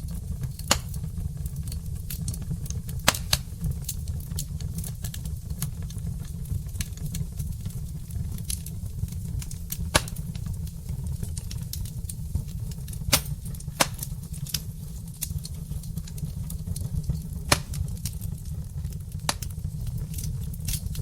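Wood fire burning in a fireplace: irregular sharp crackles and occasional louder pops from the burning logs over a steady low rumble.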